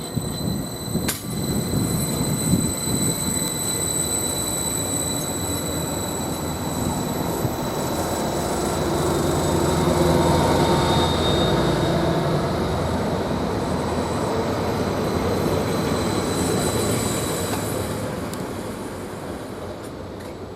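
Greater Anglia Class 755 bi-mode multiple unit pulling out of the station under diesel power. It grows louder to a peak about halfway through, then slowly fades as it draws away.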